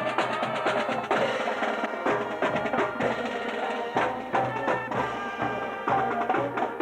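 Marching band playing a tune in sustained pitched notes over rapid snare drumming.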